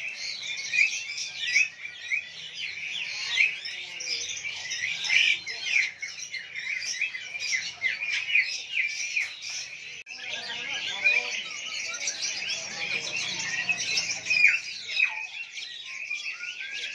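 Many caged songbirds chirping and whistling at once, a dense, unbroken chorus of short overlapping calls.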